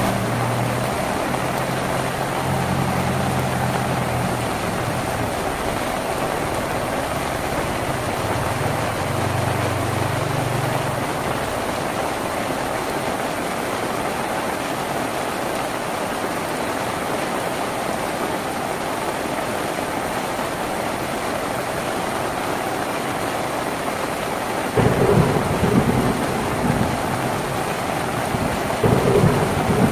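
Steady heavy rain drumming on a tin roof, with a low rumble in the first seconds. About 25 s in a sudden, louder rumble of thunder breaks in, and another comes near the end.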